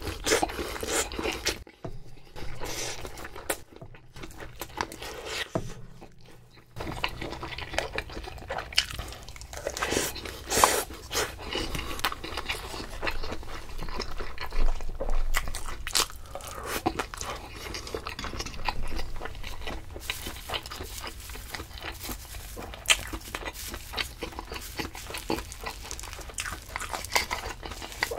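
Close-miked eating sounds: a person chewing and biting food, with many short clicks and smacks, and a brief lull a few seconds in.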